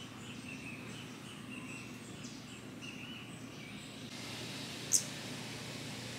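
Outdoor garden ambience: a faint steady hiss with a thin, high, broken tone in the first three seconds, then a single short, very high bird chirp about five seconds in.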